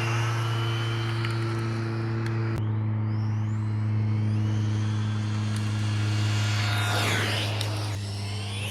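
Electric RC car's brushless motor whining, rising in pitch as it speeds up, over a steady low drone, with an abrupt cut about two and a half seconds in and a swooping pass near the end.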